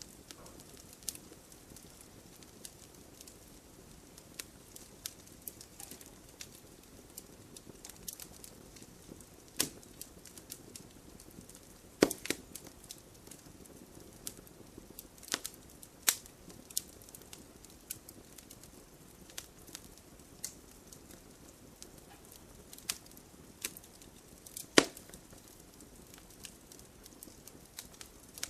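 Wood campfire crackling: a soft steady rush of flame under irregular sharp pops and snaps, a few of them much louder, around 12, 16 and 25 seconds in.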